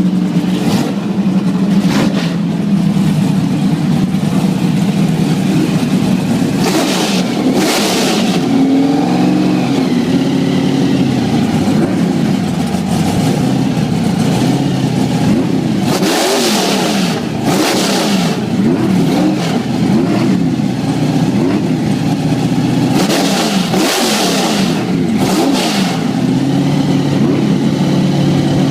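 Drag-car engines idling loudly and being revved in short bursts several times, with the pitches of more than one engine rising and falling across each other.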